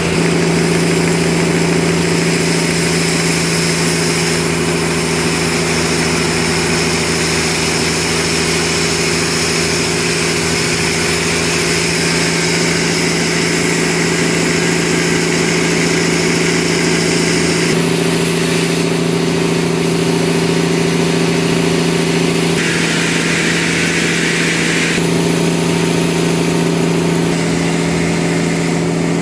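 Sawmill machinery running steadily with a constant low hum. The higher hiss shifts a few times and grows stronger for a couple of seconds about two-thirds of the way through.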